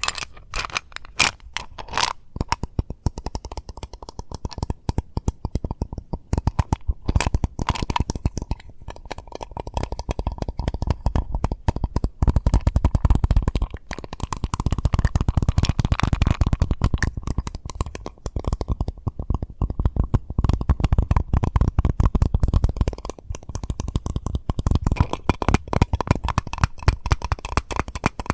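Rapid tapping on an Eclipse mint container, a dense run of quick taps that grows louder and heavier through the middle stretch.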